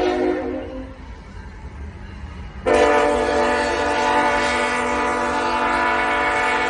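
Train horn sounding in long blasts: one blast fades out about a second in, and after a short gap a second, louder blast starts suddenly at about two and a half seconds and is held. A low rumble runs underneath.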